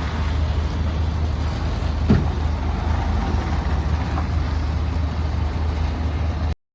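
A motor vehicle's engine running with a steady low drone and rough road-like noise, with a single knock about two seconds in. It cuts off abruptly near the end.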